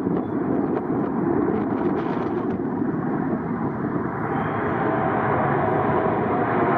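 Jet airliner engines at take-off power, a loud steady rush of noise that turns brighter about four seconds in.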